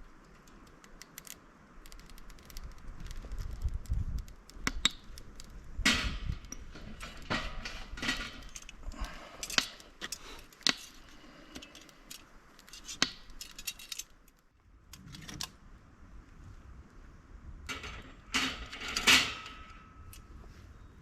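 Small metal objects being handled: irregular clinking, rattling and knocks, in clusters, with the loudest knock near the end leaving a brief metallic ring.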